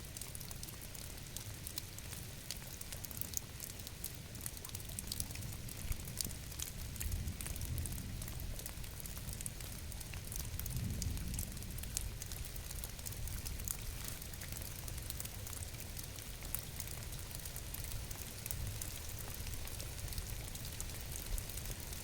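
Steady rain falling, with a dense pattering of fine drop ticks over a low rumble.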